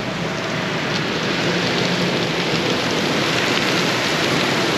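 Heavy rain pouring down on a car, heard from inside, as a dense steady hiss that grows a little stronger after the first second.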